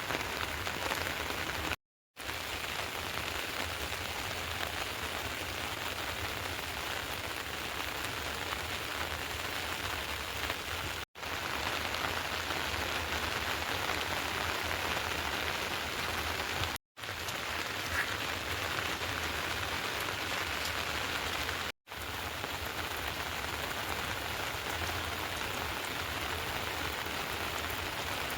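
Heavy rain falling steadily with an even hiss, cut off for an instant four times where the recording is spliced.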